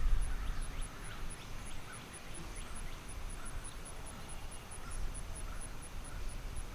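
Birds calling over and over in short honking calls, with a few brief higher squeals, above a low rumble of wind on the microphone.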